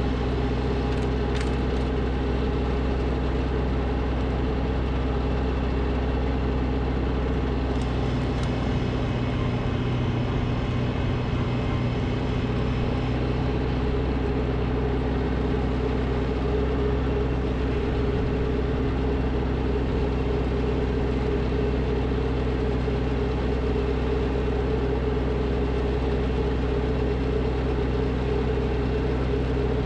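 Snowblower's gasoline engine running steadily at a constant speed.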